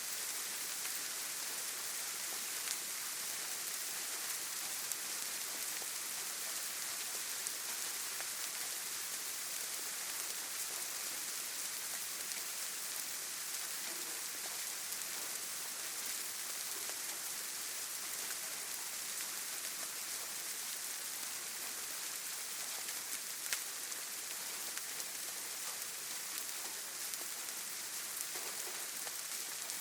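Steady rain falling on forest foliage: an even hiss with scattered individual drop ticks, one a little sharper about two-thirds of the way through.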